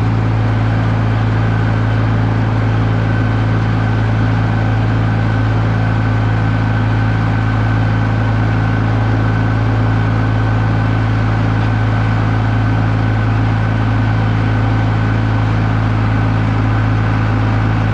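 Farm tractor engine running steadily at constant speed, a loud even drone.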